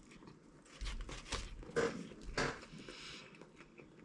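Someone eating a fast-food chicken sandwich close to the microphone: a few short bites and chewing noises.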